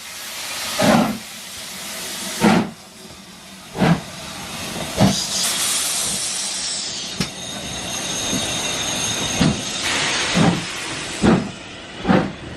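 Steam locomotive getting a train under way: separate exhaust beats that quicken from about one every second and a half to nearly one a second, over a steady steam hiss that swells for a second or two in the middle.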